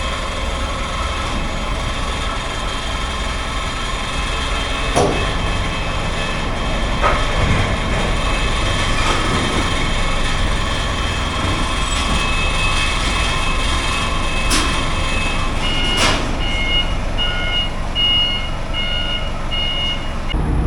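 Steady engine running with a few sharp knocks, and in the last five seconds a reversing alarm beeping a little faster than once a second, as a forklift backs up while unloading.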